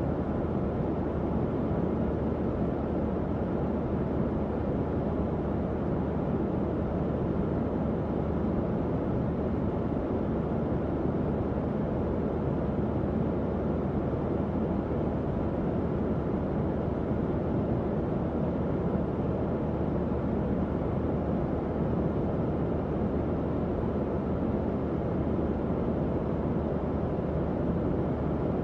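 Tower fan running steadily: an even, low whooshing airflow with a faint steady hum under it.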